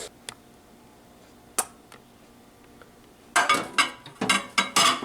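Kitchenware being handled: a sharp click about a second and a half in, then a run of rattling knocks and clinks near the end.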